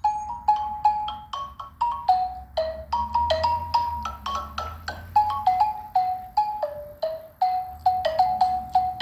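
Xylophone played with mallets: a steady run of single struck notes, about three or four a second, each fading quickly, wandering up and down in a simple melody.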